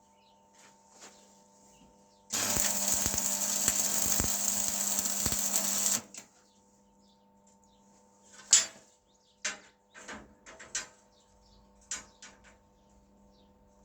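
A small power tool runs for about four seconds, starting and stopping abruptly. Several sharp clicks and knocks follow.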